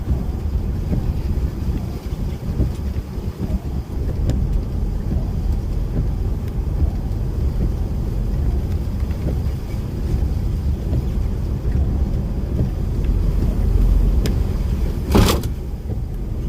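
DAF lorry driving, a steady low engine and road rumble, with one short sharp knock about fifteen seconds in.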